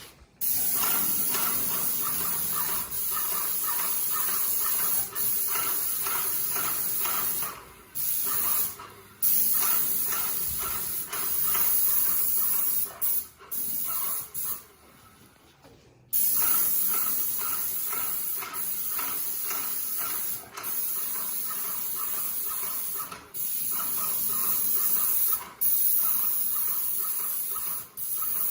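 Paint sprayer with a fine spray tip spraying paint in long passes, a steady hiss with a fast fine pulsing, stopping briefly between passes a few times.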